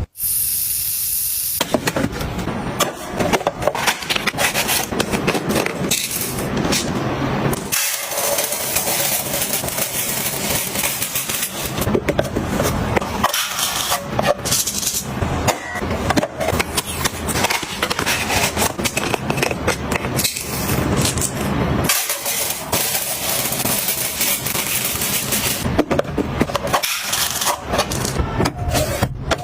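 Close-miked clatter of household items being handled: a dense, continuous run of taps, knocks and rubbing, with short pauses.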